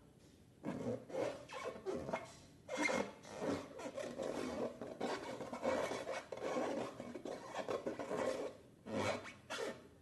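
Hands squeezing and rubbing slime-filled balloons: irregular rubbing, squeezing noises in uneven bursts, starting about half a second in.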